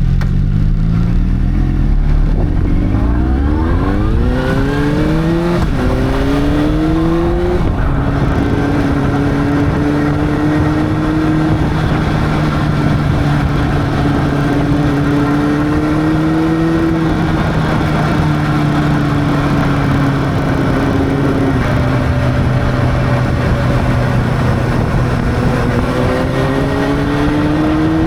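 Honda CB600's inline-four engine pulling through the gears: the revs climb steeply, drop with an upshift about six seconds in and again a couple of seconds later, then hold fairly steady at cruising speed, rising once more near the end.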